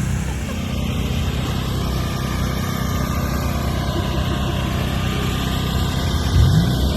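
Minibike engine idling with a steady low beat, then revving up briefly near the end.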